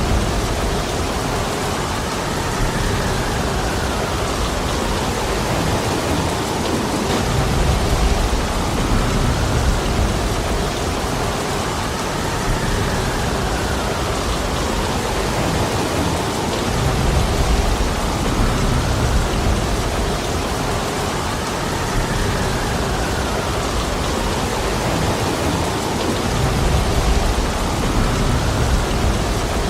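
Heavy rain falling steadily in a dense, even hiss, with a low rumble that swells and fades about every nine seconds.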